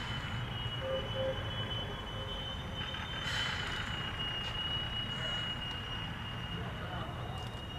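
A 762 mm gauge electric locomotive hauling loaded iron ore wagons rolls slowly: a low rumble with a steady high-pitched squeal over it.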